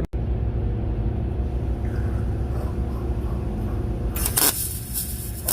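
Two short crackling bursts of a welder tack-welding an exhaust pipe joint, the first about four seconds in and the second near the end, each under half a second. A steady low hum runs underneath throughout.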